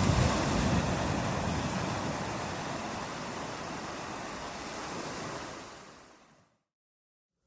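Rushing water, loudest near the start, then fading out to complete silence about six seconds in.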